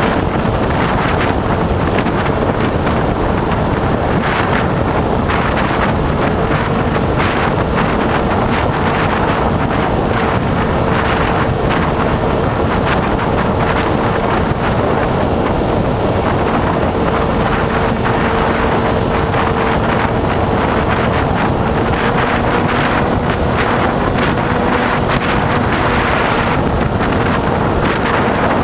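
Radio-controlled model plane in flight heard from its onboard camera: heavy wind rushing over the microphone with the motor and propeller holding a steady, thin whine that drifts slightly in pitch.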